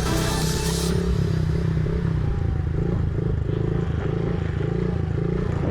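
Small dirt bike engine running with a pulsing, rising and falling note as the bike is ridden on the practice track.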